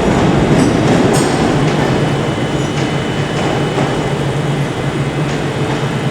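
A Class 380 electric multiple unit moving through the platform, with a steady low hum and a few wheel clicks over the rail joints in the first second or so.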